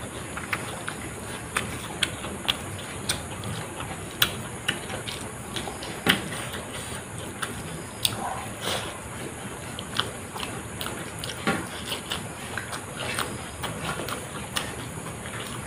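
Close-miked chewing and wet lip-smacking of someone eating rice with curry by hand, with frequent sharp, irregular mouth clicks.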